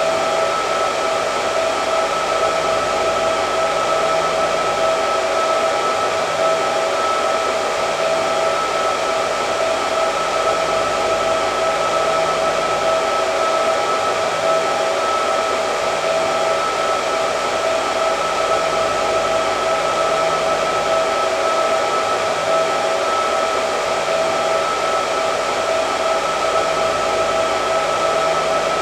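Hair dryer running steadily: a constant rush of air with a steady whine from its motor, with no change in speed or pitch.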